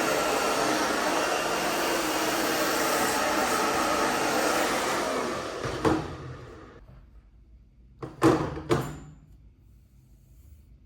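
Hairdryer blowing steadily, then switched off about halfway through, its fan winding down over a second or so. A click as it stops and two sharp knocks a couple of seconds later.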